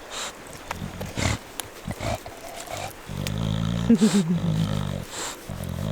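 A domestic cat growling: low, drawn-out growls, faint at first and stronger from about three seconds in.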